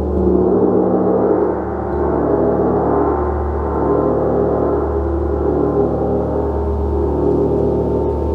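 Gong sounding continuously: a dense, sustained wash of many overlapping ringing tones with no separate strikes, dipping slightly in loudness about two seconds in.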